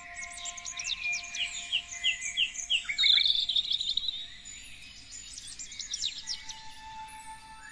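Several songbirds singing and calling together: quick trills, short falling notes and chirps overlapping throughout.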